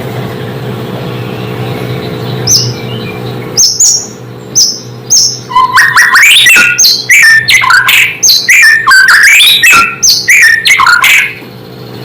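White-rumped shama singing: a few short high notes at first, then from about halfway a loud run of varied whistled phrases rising and falling in pitch, stopping shortly before the end. A steady low hum lies under the first few seconds.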